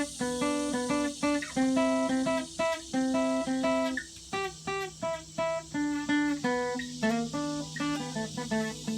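Guitar instrumental passage: a quick run of picked single notes over a lower sustained note, with no singing.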